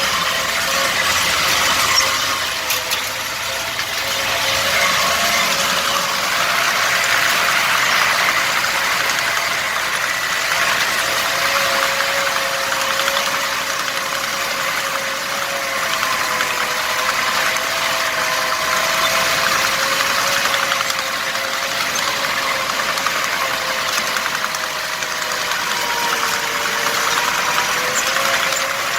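T-74 crawler tractor's diesel engine running steadily under load, with a continuous hum that wavers slightly in pitch.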